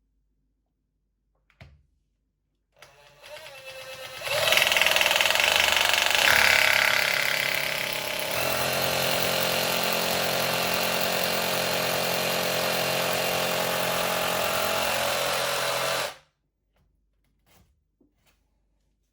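Electric hammer drill boring a hole into a wall. The motor spins up about three seconds in and is loudest for a few seconds, then settles to a steady whine and stops suddenly near the end.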